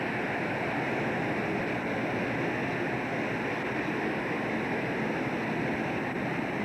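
Steady, unbroken rushing noise aboard a fishing boat at sea, the kind made by wind, sea and the boat running together.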